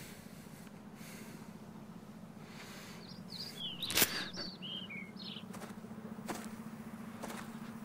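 A bird chirping in a quick run of short, falling chirps over a steady low outdoor hum, with one sharp smack about four seconds in.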